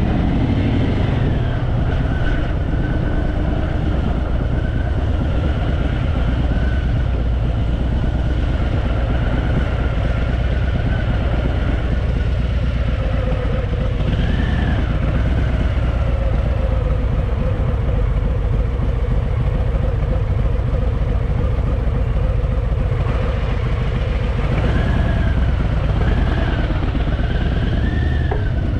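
Harley-Davidson Fat Boy's V-twin engine running steadily while the motorcycle is ridden along a road.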